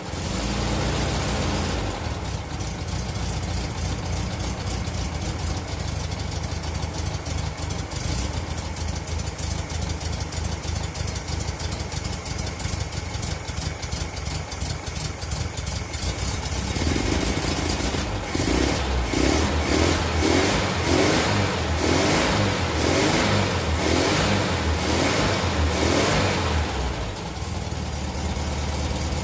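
VW single-cab pickup's air-cooled flat-four engine idling on its first run after assembly, then revved in a series of quick throttle blips about once a second for roughly ten seconds before settling back to idle. It is running rough and super rich on a carburettor not jetted for this engine.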